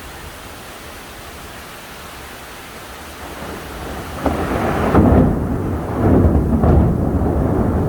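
Steady rain hiss, then about four seconds in a sudden crack of close thunder that rolls on as loud, deep rumbling: a nearby lightning strike.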